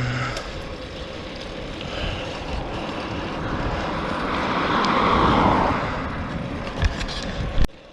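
Steady outdoor vehicle noise with a passing vehicle that swells up about halfway through and fades away, cut off abruptly just before the end.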